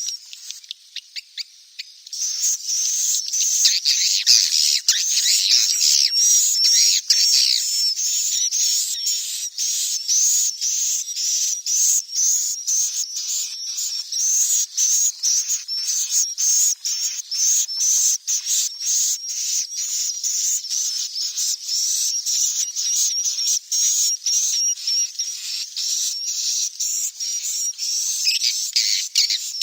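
Swiftlet chicks chirping: a dense run of short, high-pitched chirps, several a second, growing louder about two seconds in.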